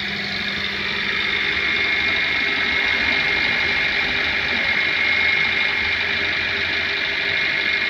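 Maruti Suzuki Eeco's four-cylinder petrol engine idling steadily on LPG through a sequential gas injection kit: an even running hum with a steady high whine over it.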